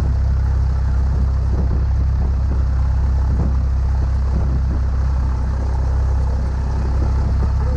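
Cessna 172's single piston engine and propeller running steadily at low taxi power, a constant low drone.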